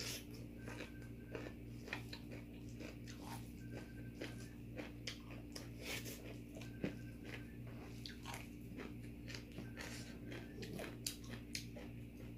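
A person chewing crunchy kimchi close to the microphone: a run of irregular crisp crunches and mouth sounds.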